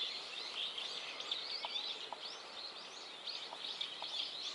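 Small birds chirping, many short high chirps overlapping with no pause.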